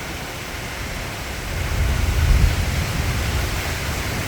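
Heavy storm rain and strong wind making a steady rushing noise, with a deep wind rumble on the microphone that swells about a second and a half in.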